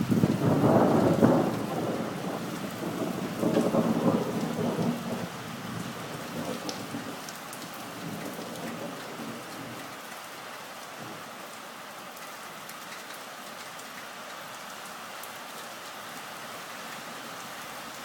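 Thunder rumbling, loudest in the first couple of seconds with a second swell about four seconds in, dying away into steady rain falling.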